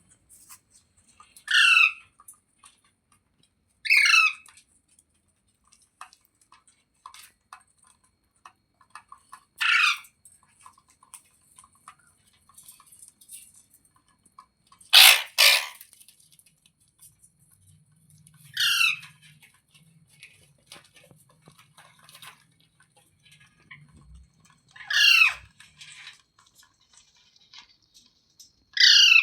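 Green ring-necked parakeet giving short, harsh squawking calls, one every few seconds, with a quick double call about halfway through.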